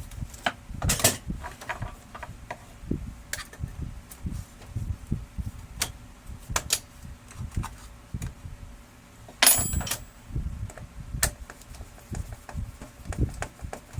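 Irregular clicks and knocks of hard parts being handled, with a louder clatter about nine and a half seconds in.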